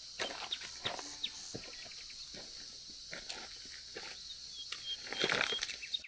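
Footsteps on a trail, a run of short scuffs and rustles, with the loudest rustling step about five seconds in. A steady high hiss of outdoor ambience runs underneath, with a few faint short bird chirps near the end.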